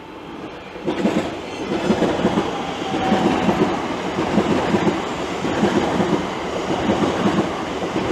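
A Class 345 Aventra electric multiple unit passing through, growing loud about a second in, its wheels beating a steady clickety-clack over the rail joints.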